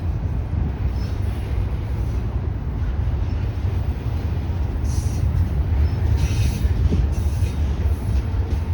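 Train passing, its wheels on the rails making a steady low rumble, with two brief bursts of hiss about five and six and a half seconds in.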